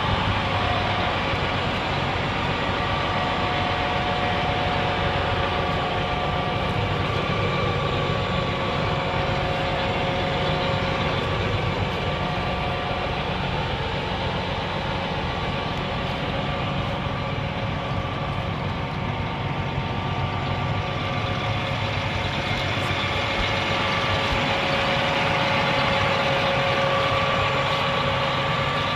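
2014 John Deere 8235R tractor's diesel engine running steadily, with a whine that fades in and out over it.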